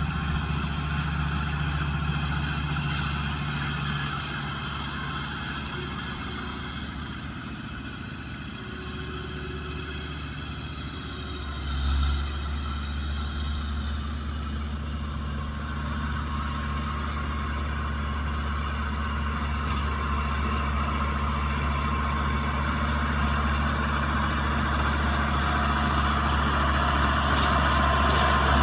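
Kubota M125X tractor's diesel engine running steadily while pulling a working baler. The sound dips somewhat in the middle, has a brief louder swell about twelve seconds in, then grows gradually louder toward the end.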